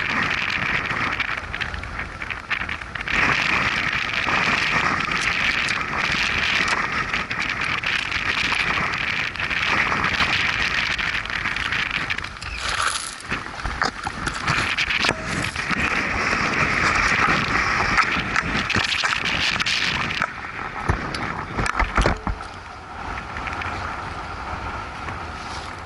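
Motorcycle on the move, its engine and road noise mixed with rushing wind. The sound falls back about twenty seconds in, with a few knocks after.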